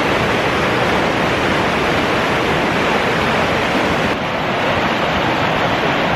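Whitewater of a steep mountain torrent rushing through rapids: a steady, loud rush of water.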